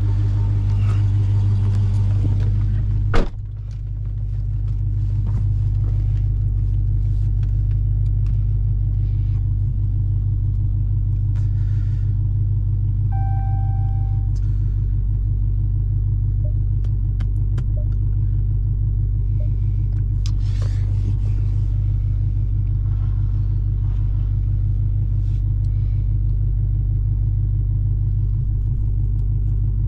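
Dodge Hellcat Redeye's supercharged 6.2-litre V8 idling with a steady low rumble, no revving. A sharp thump about three seconds in, and a short beep near the middle.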